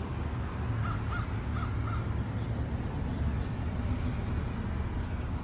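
A bird calling four times in quick succession about a second in, over a steady low rumble.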